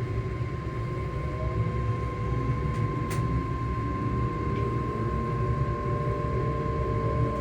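Hitachi-built ScotRail Class 385 electric multiple unit's traction motors humming under way, a steady high whine over the low rumble of the train running. Near the end, fainter lower tones begin to rise slightly in pitch.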